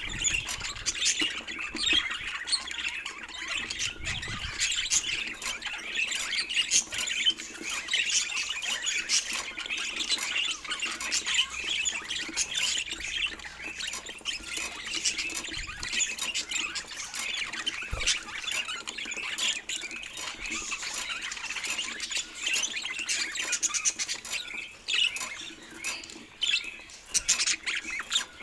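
Budgerigars chattering and squawking without pause, a dense run of quick, high chirps and warbles.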